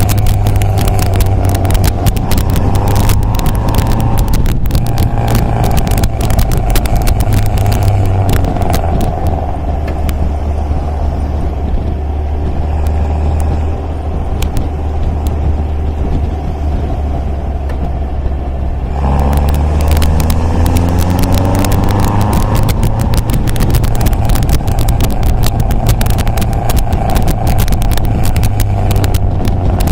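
MG MGA roadster's four-cylinder engine running under way. It eases off to a lower, quieter note for about ten seconds in the middle, then pulls again with the pitch rising as it accelerates.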